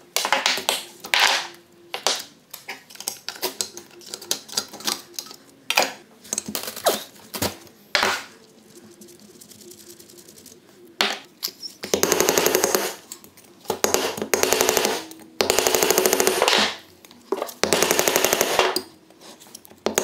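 Metal tools and engine parts clinking and knocking. About halfway through, an impact wrench hammers in four short bursts of about a second each.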